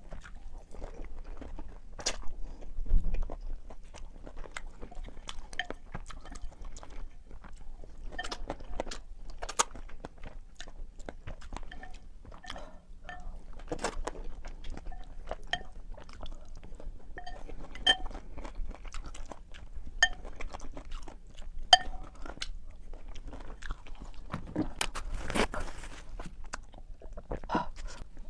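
Close-miked eating: a person chewing and biting food, with many short mouth clicks throughout.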